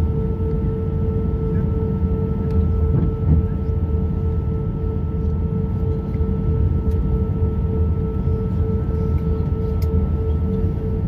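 Steady airliner cabin hum on the ground: a constant low rumble with a fixed droning tone, unchanging throughout.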